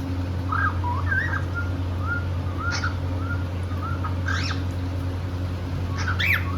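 Cockatiel whistling a warbling string of short notes, broken by a few sharp rising chirps, over a steady low hum.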